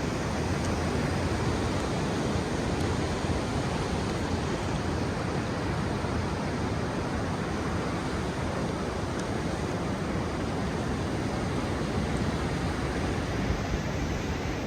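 Ocean surf washing on a beach, a steady rushing noise.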